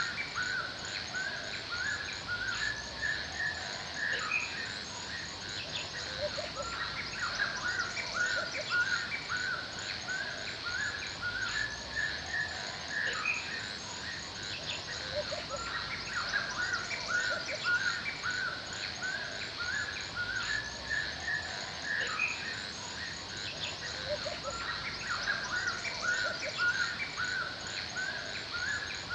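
Forest ambience: many birds chirping continuously in quick, overlapping short calls, over a steady high-pitched chirring.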